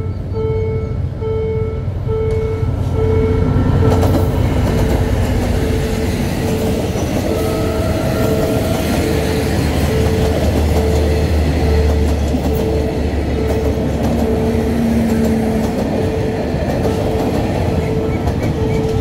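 State Railway of Thailand passenger train running past close by, a steady rumble and clatter of coaches on the rails. Under it, the level crossing's warning bell rings about twice a second.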